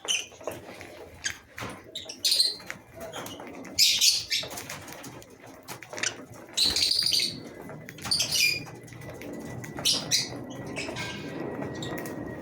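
A colony of lovebirds giving short, shrill chirps at irregular intervals, mixed with scattered sharp clicks.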